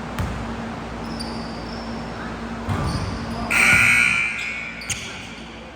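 Basketball game sounds on an indoor court: a ball bouncing and shoes knocking and squeaking on the floor over a steady low hum. A loud, high sound lasting under a second comes about three and a half seconds in.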